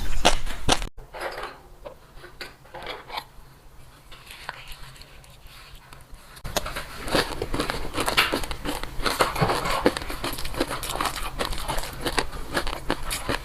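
Close-miked eating sounds: crunching, chewing and crackling as seafood and crisp vegetables are bitten and chewed, with some crinkling rustle. The sound is quieter for a few seconds and gets louder again about six seconds in.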